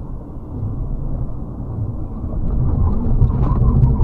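Steady low rumble of a vehicle's engine and road noise while driving, growing louder toward the end.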